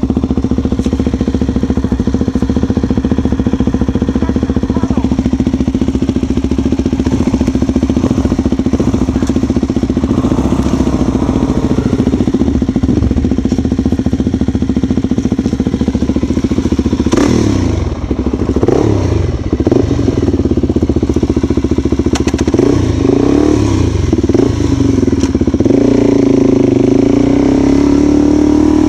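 A motor vehicle engine, close to the microphone, running at a steady speed for the first half, then revving up and down repeatedly with a few knocks, and climbing to higher revs near the end.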